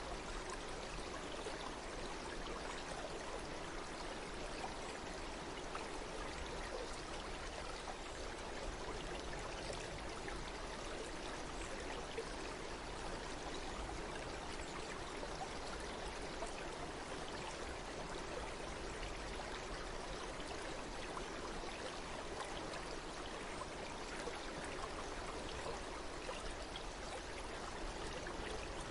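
Stream water running steadily, a continuous even rush of flowing water with no change.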